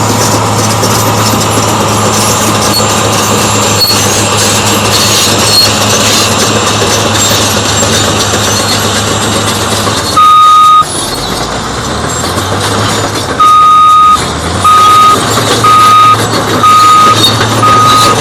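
Cat D8T bulldozer's diesel engine running steadily and loud. About ten seconds in the engine note drops and a single high beep sounds; a few seconds later the reversing alarm starts beeping about once a second, the loudest sound.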